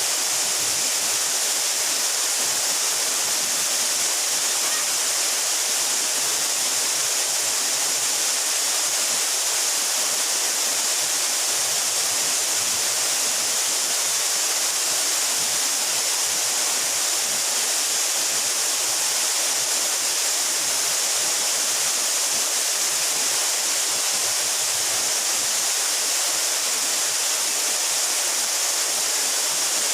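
Mountain waterfall, about 12 metres high, pouring steadily in a constant hiss of falling water.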